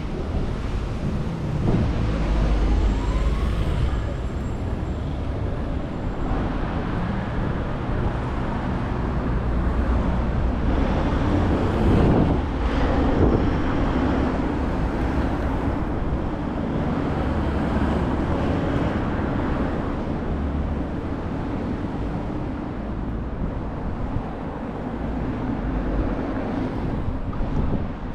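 Busy city-street ambience: road traffic running past, with wind buffeting the microphone in uneven low gusts.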